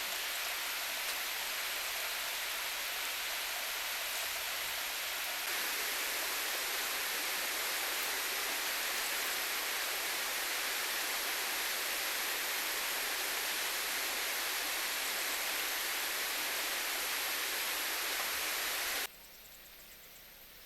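A steady rushing noise, like running water or rain, that cuts off abruptly near the end, leaving a much quieter background.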